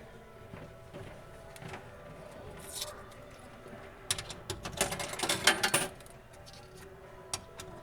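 A dense run of sharp clicks and rattling lasting about two seconds, starting a little past the middle, over faint steady background tones.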